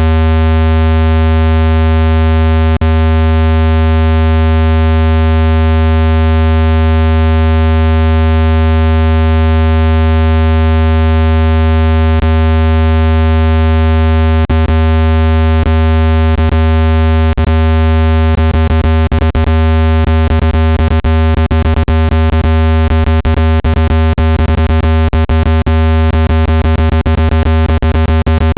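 Synthesized speaker water-ejection tone: a deep, buzzy, unchanging tone meant to shake trapped water out of a phone speaker. From about halfway through, short clicks break into it, more and more often toward the end.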